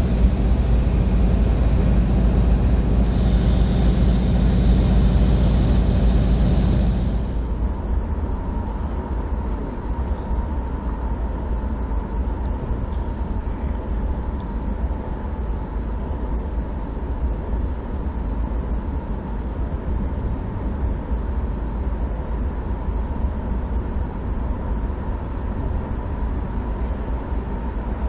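Diesel-hauled freight train passing: an engine drone for about the first seven seconds, then the steady rumble of railcars rolling by with a faint steady whine.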